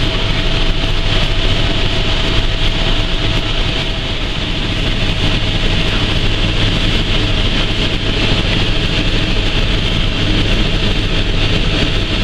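Tour helicopter in flight: a steady engine and rotor drone with a constant hiss on top. A faint steady tone fades out about four seconds in.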